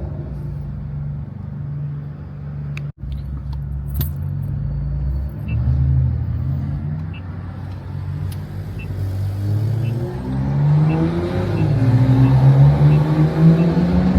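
BMW M340i's turbocharged inline-six engine under way, a steady drone whose pitch climbs as it accelerates and gets louder over the last few seconds. The sound cuts out for an instant about three seconds in.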